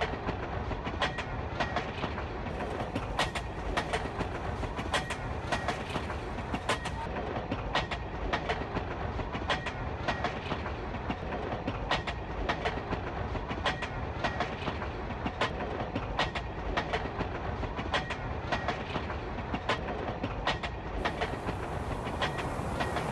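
Railbus running along the track, its wheels clicking over rail joints about once or twice a second over a steady low rumble.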